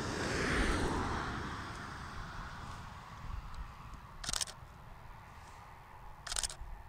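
Two short camera shutter clicks about two seconds apart, the first about four seconds in. A rushing swell of noise fills the first two seconds, over a low rumble of wind on the microphone.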